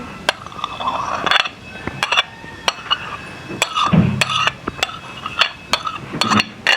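A metal spoon tapping and clinking against a bowl in scattered, irregular knocks as mashed boiled eggs are scraped into a creamy chicken filling.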